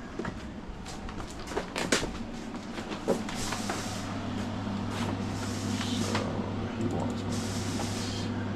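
Workshop noise: scattered clattering knocks, then a steady hum from about three seconds in, with three bursts of hiss about a second long.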